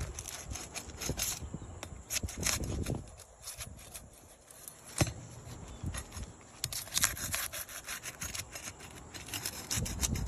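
A hand tool scraping and prying against roof shingles: irregular rasping strokes, with a few sharp clicks or knocks, the loudest about halfway through and again a couple of seconds later.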